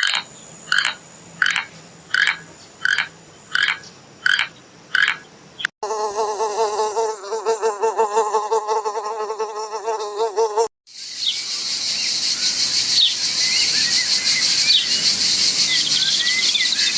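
Three short animal-sound clips in a row: about eight evenly spaced chirping calls, then a steady, rapidly pulsing buzz, then a dense, high-pitched insect chorus with scattered chirps.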